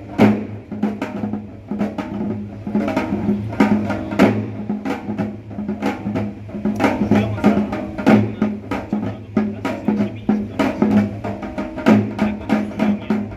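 Korean traditional percussion ensemble (pungmul) playing a fast, steady rhythm of dense drum and gong strikes.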